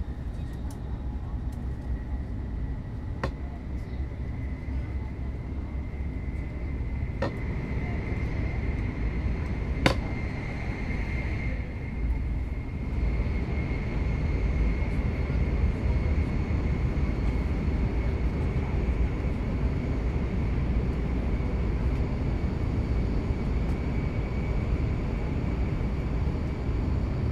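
N700S Shinkansen train running, heard from inside the passenger car: a steady low rumble with a faint high whine that rises slightly in pitch while the noise grows louder. A few sharp clicks sound about 3, 7 and 10 seconds in.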